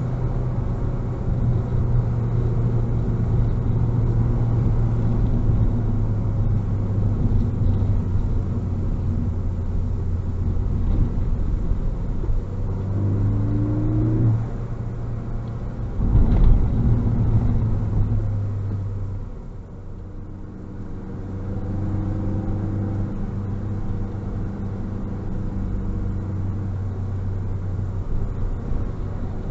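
Stock 2018 Ford Focus ST's 2.0-litre turbocharged four-cylinder heard from inside the cabin while cruising: a steady engine hum over tyre and road rumble. About halfway through the engine note shifts pitch and a short, louder rumble follows. A little later the sound drops off briefly, then settles back to a steady cruise.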